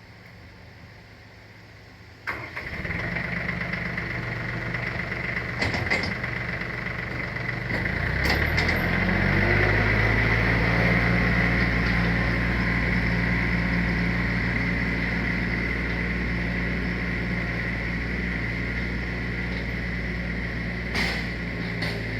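Small petrol engine starts about two seconds in and runs steadily, then speeds up around eight seconds in and keeps running at the higher speed.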